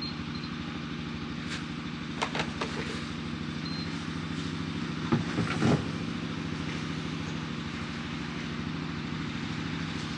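A vehicle engine idling steadily, with a few light clicks about two seconds in.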